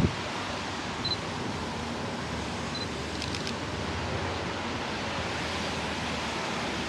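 Steady hiss of rain, with a Sony A7R III's short focus-confirmation beep twice, about one and three seconds in, and a quick run of shutter clicks just after the second beep.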